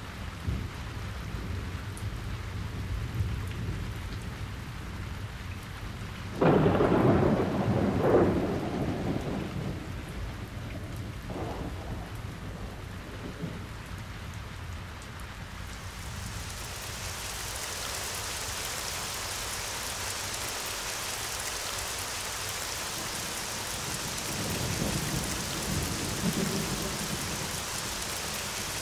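Thunderstorm: a sudden loud thunderclap about six seconds in rolls on for a few seconds, with a second crack inside it. From about halfway through, steady rain hisses, and a further low roll of thunder comes near the end.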